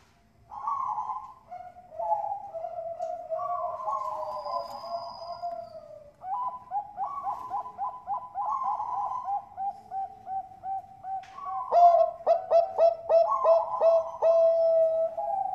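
Perkutut bangkok (zebra doves) cooing: rolling, overlapping coos at first, then from about six seconds a fast run of short staccato notes, about three a second. The notes turn louder and sharper near the end and close on a long held coo.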